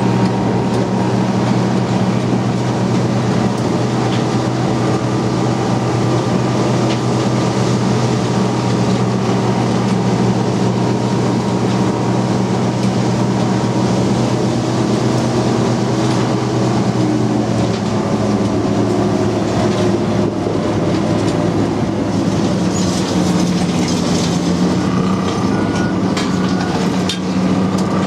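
Engine of a Type 94 waterfront mine-laying vehicle running steadily under way, heard from on board as a loud continuous drone; its note changes about two-thirds of the way through.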